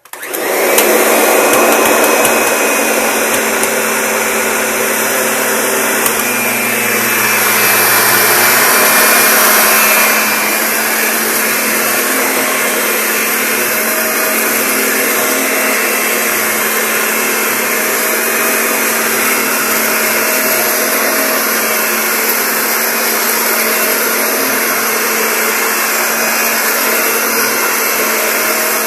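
Kirby upright vacuum cleaner switched on and running steadily as it is pushed over carpet, its motor giving a steady hum under loud rushing air, a little louder for a few seconds near the start.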